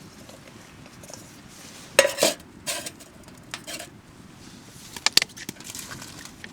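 Cooking pots, dishes and utensils clinking and clattering in a few separate bursts, the loudest about two seconds in and more after five seconds.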